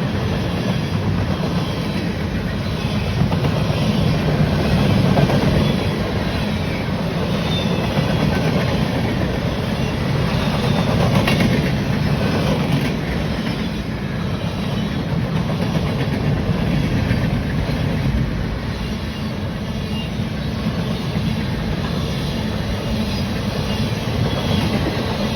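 A train's cars rolling past: a steady, unbroken rumble of steel wheels on the rails.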